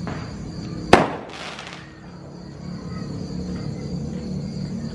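Fireworks going off: one sharp bang about a second in, followed by a brief crackle.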